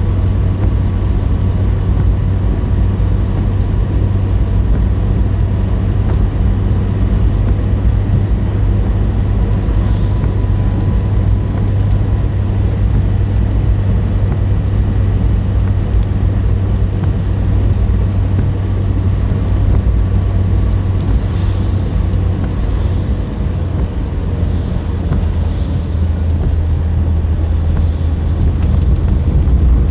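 A car driving along: a steady, loud low rumble of engine and tyre noise.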